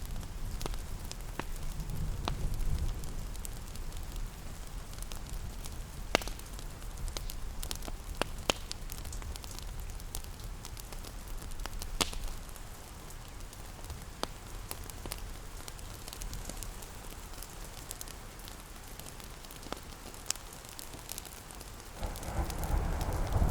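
Wood fire crackling, with scattered sharp pops, over a steady hiss of rain. A low rumble sounds in the first few seconds and swells again near the end.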